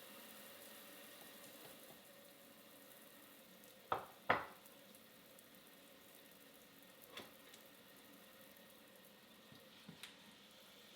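Faint fizzing hiss of water in a sink with soaking plant pots. Two sharp knocks come close together about four seconds in, then a few lighter clicks.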